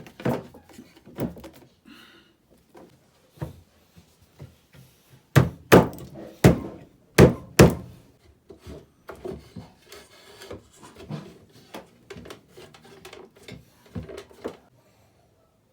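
Wooden knocks and thunks as furniture parts are fitted together during a glue-up, irregular throughout with a run of about six loud blows around the middle.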